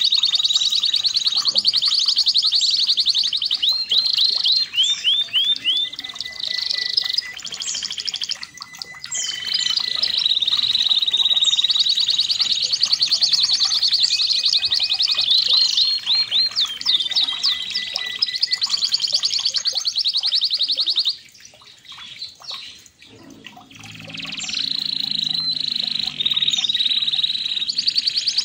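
Red canary singing long, rapid trills and rolls, high-pitched and nearly unbroken. The song drops out briefly about three quarters of the way through, then resumes.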